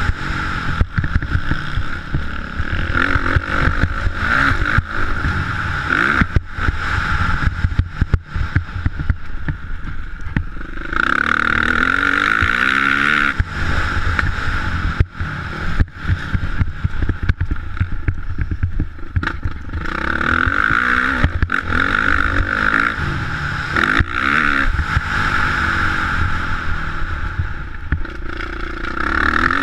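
Motocross dirt bike engine being ridden, revving up and falling back again and again, with frequent short knocks and buffets throughout.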